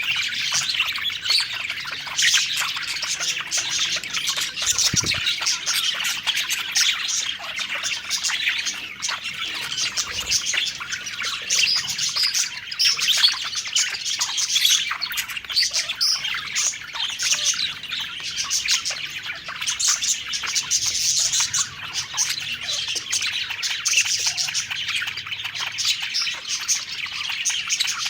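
A flock of budgerigars chattering and chirping continuously, many overlapping warbles and tweets. A single low thump about five seconds in.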